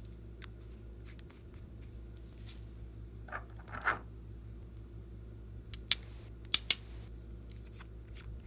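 Slime being handled and mixed: a short squelch a few seconds in, then three sharp clicks or snaps close together about six seconds in, over a steady low hum.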